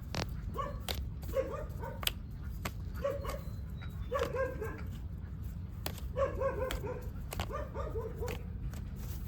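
Short animal calls in quick runs of several, repeating every second or two, with sharp clicks in between over a steady low rumble.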